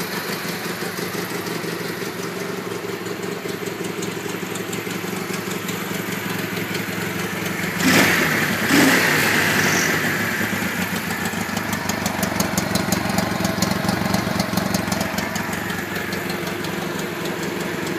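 1962 Honda Dream 250 CA72's 250cc twin-cylinder engine idling steadily, with two short louder bursts about eight and nine seconds in.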